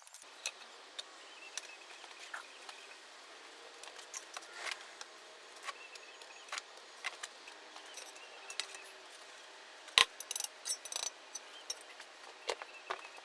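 Irregular light clicks and taps of small hard objects over a faint hiss, with a sharper knock about ten seconds in followed by a quick run of clicks.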